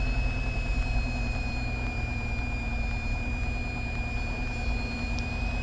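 Light aircraft's piston engine idling steadily while taxiing, heard through the cockpit headset intercom, with a thin steady high whine over the low engine rumble.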